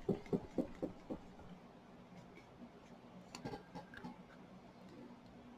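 A bottle of Triple Thick gloss glaze being shaken, a rhythmic run of soft thuds about four a second that fades out about a second in. Faint clicks of handling follow.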